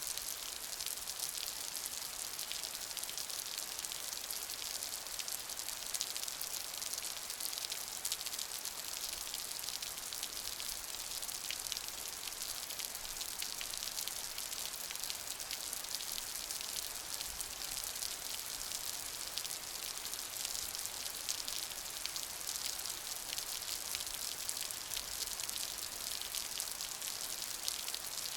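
Steady rain: a dense, even hiss of many small drops, with crisp individual drop ticks and no thunder.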